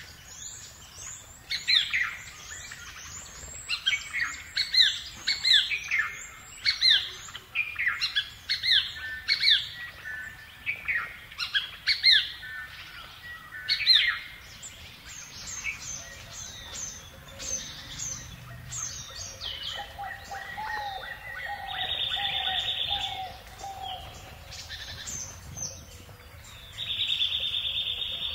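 Birds chirping: quick, downward-sliding chirps repeated rapidly through the first half, thinning out later, with a buzzy trill twice in the second half.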